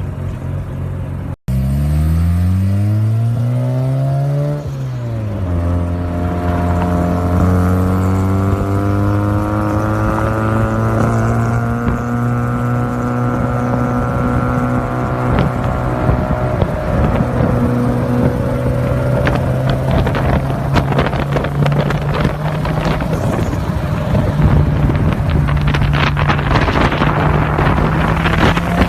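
Mazda RX-7 FD's twin-rotor 13B rotary engine through its exhaust: a quick rev up and back down, then a long steady pull with the pitch rising slowly. A rapid crackle of short sharp clicks comes in over the second half.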